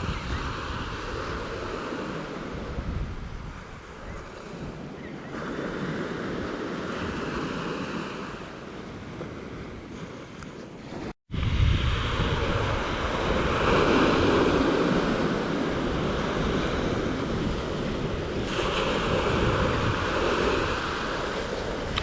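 Sea waves breaking and washing ashore on a beach, swelling and easing, with wind on the microphone. A brief cut to silence about halfway in; after it the surf is louder.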